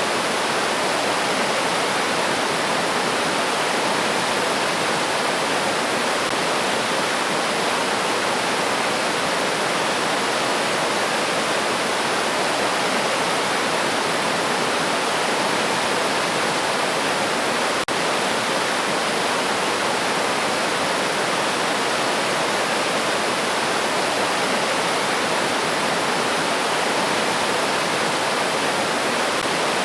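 A river flowing and rushing steadily, with one momentary dropout about 18 seconds in.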